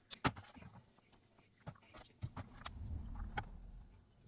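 Light clicks and taps of small engine parts and tools being handled during assembly, with a low rubbing sound in the middle.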